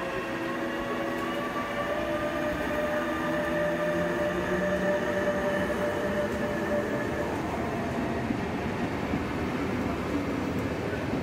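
A DB Intercity 2 train passes close by: an electric locomotive hauling double-deck coaches. For the first half its drive gives a whine of several steady tones that drift slightly and then fade. After that the rolling rumble of the coaches on the rails takes over, with a few faint clicks near the end.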